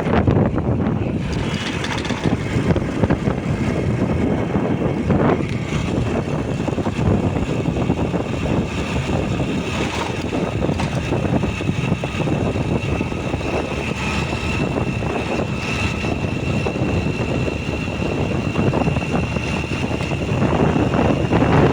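Motorcycle running steadily at road speed, with wind buffeting the microphone.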